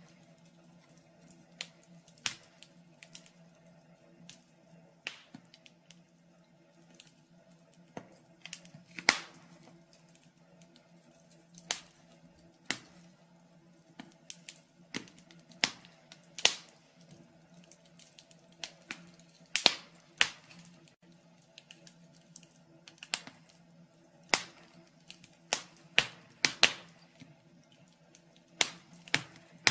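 Wood fire in a fireplace crackling: irregular sharp pops and snaps, one or two a second and uneven in loudness, over a faint steady low hum.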